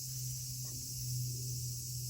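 Steady chorus of summer insects, with a low steady hum underneath that is the loudest thing.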